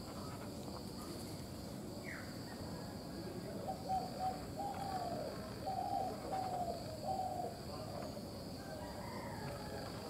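A bird calling a run of about seven short, even notes through the middle, over a steady high insect buzz.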